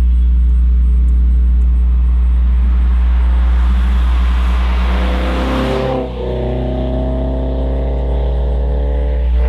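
2013 Scion FR-S's flat-four engine with a Corsa performance exhaust, accelerating under a steady deep drone. The note dips briefly about six seconds in, as at an upshift, then climbs steadily again.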